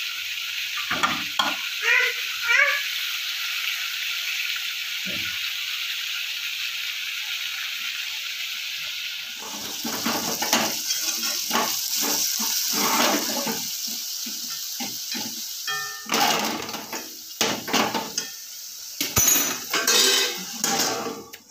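Fish pieces in tomato-spice masala sizzling in hot oil in a kadai. After about nine seconds the sizzle is broken up by a spoon stirring and scraping the pan, with utensils clattering near the end.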